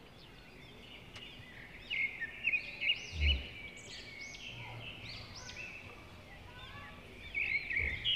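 Small birds chirping in the trees: many quick, high calls that come in clusters about two seconds in and again near the end. There is a brief low thump a little after three seconds.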